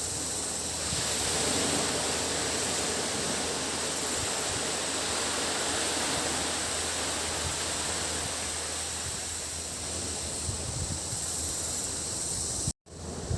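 Small sea waves washing onto a beach, a steady rushing surf that swells about a second in, with a continuous high-pitched drone of cicadas over it. The sound drops out for an instant near the end.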